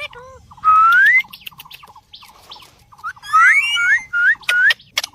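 Pet parrot whistling: a rising whistle about half a second in, then a run of several short rising whistles in the second half, with sharp clicks in between.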